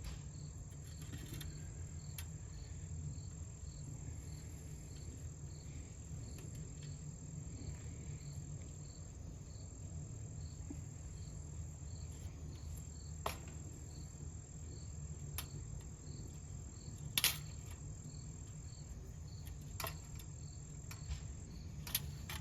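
A cricket chirping steadily about twice a second over a low outdoor rumble, with a few sharp clicks from the bent tines of a metal rake being worked straight, the loudest about 17 seconds in.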